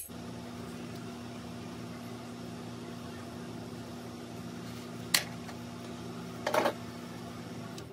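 A steady low mechanical hum, like a fan or appliance motor, with two short knocks about five and six and a half seconds in.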